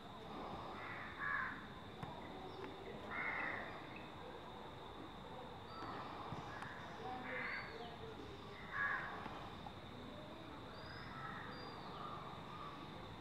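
Birds calling: about six short calls a few seconds apart, with faint high whistled notes from smaller birds and a steady high-pitched hum underneath.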